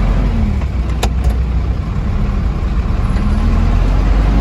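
Train running with a loud, steady low rumble and an engine hum that dips and then rises in pitch; a sharp click about a second in.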